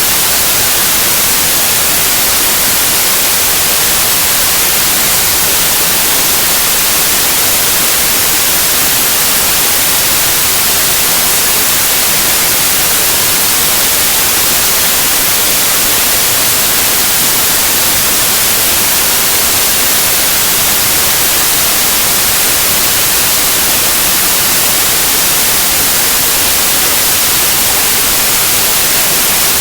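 Continuous white noise: a steady, even hiss, brightest in the treble, that never changes.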